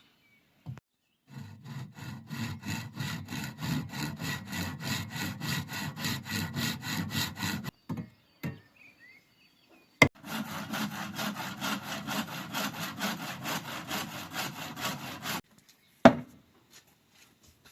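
Hand saw cutting through a dry bamboo cane in two bouts of quick, even back-and-forth strokes, about four a second. A sharp knock comes between the bouts and another near the end.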